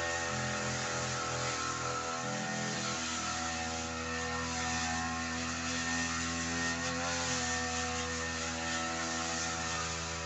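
Petrol brush cutter engine running steadily while cutting thick grass, with slight shifts in its low note in the first few seconds.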